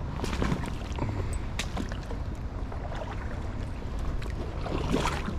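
Wind buffeting the microphone over the steady rush of river water, with a few scattered short clicks and rustles, the strongest near the end.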